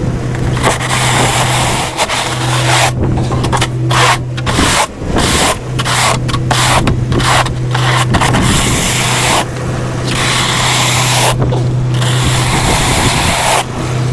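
Plow truck running while its plow blade scrapes across snow and pavement, in long stretches and a run of short scrapes, over a steady engine hum.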